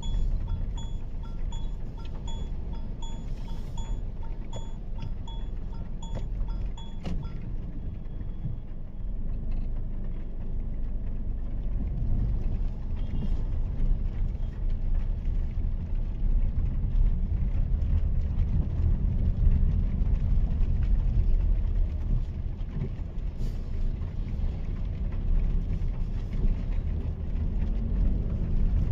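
Steady low rumble of a Mahindra XUV 3XO's 1.2-litre three-cylinder turbo-petrol engine and tyres while driving. For the first seven seconds or so the turn indicator ticks about twice a second, then stops.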